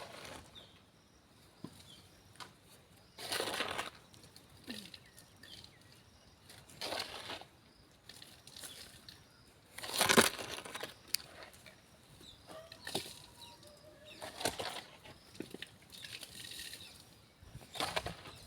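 Soil being shovelled into a planting hole: five separate scraping, swishing strokes a few seconds apart, with small clicks of soil and stones between them.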